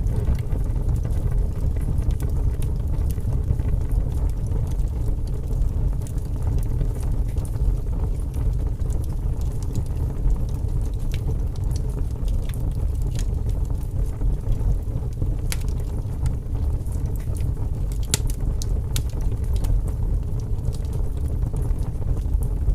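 Wood fire burning in a fireplace: a steady low rumble with scattered crackles and pops, a few sharper snaps in the second half.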